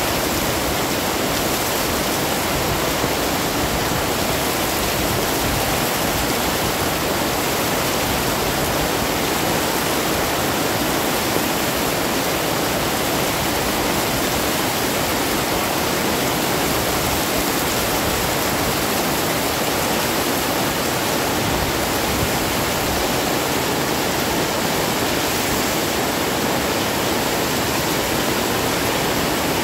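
Heavy rain pouring down steadily: a dense, even hiss with no thunder.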